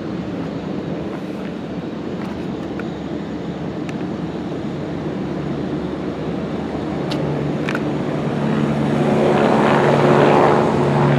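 Aircraft engine noise growing steadily louder, with a low steady hum joining about eight seconds in and getting stronger toward the end.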